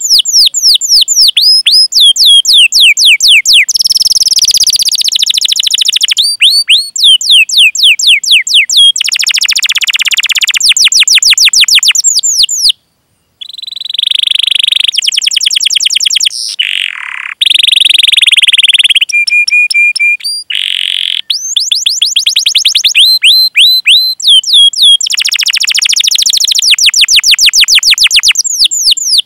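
Canary singing: long runs of fast, repeated downward-sweeping 'cuit cuit' notes alternating with rolled trills, with a brief break about halfway through.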